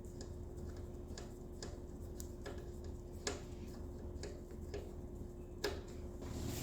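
Irregular light clicks and taps of hand tools and small metal fasteners being handled while refitting a motorcycle headlight assembly, two of them sharper, over a steady faint hum.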